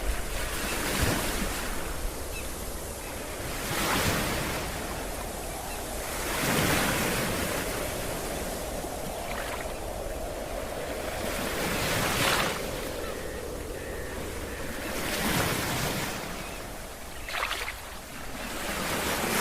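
Ocean waves breaking on a beach, each wash swelling up and falling away every three to five seconds, over a steady low rumble.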